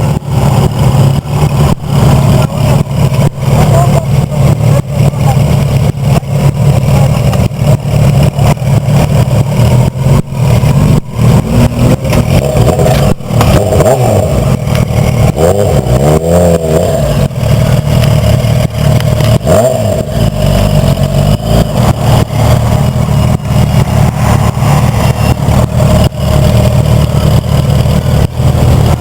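Motorcycle engines running loud, with a few revs that rise and fall about halfway through.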